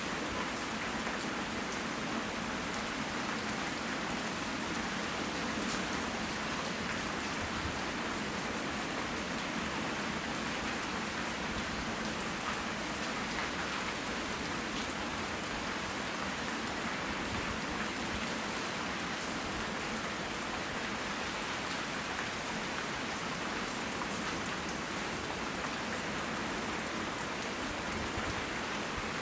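Steady rain falling and pattering on surfaces, with scattered faint drop ticks, recorded on a phone microphone.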